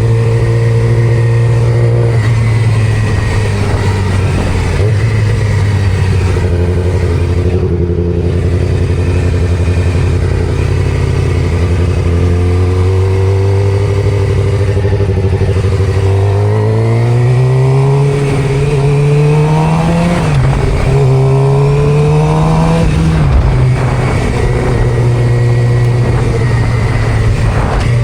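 Suzuki GSX-R600 inline-four sport-bike engine under way at a steady rpm. Past the middle it revs up, drops sharply at a gear change, revs up again and drops back to a steady cruise.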